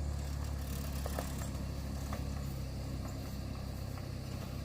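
2000 Chevrolet Cavalier's 2.2-litre four-cylinder engine idling with a steady low hum.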